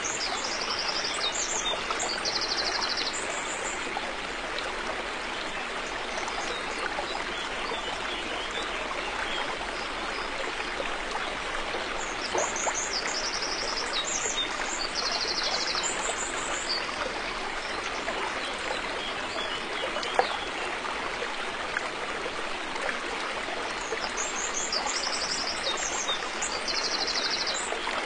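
River water flowing steadily with an even rush. A small bird sings a short high phrase of several notes three times, roughly every twelve seconds.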